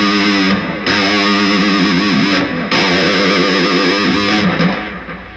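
Distorted electric guitar imitating a leaf blower: a note at the third fret of the low E string, bent with the tremolo bar and wobbled in pitch. It sounds three times as long wavering notes with short breaks between, fading out near the end.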